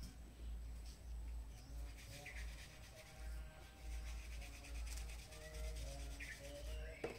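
Quiet garden ambience: a few short bird chirps, one about two and a half seconds in and another near the end followed by a gliding call, over a low rumble.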